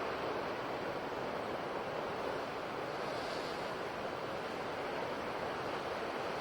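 Ocean surf washing on a shore: a steady, even wash of waves, with the hiss swelling slightly about halfway through.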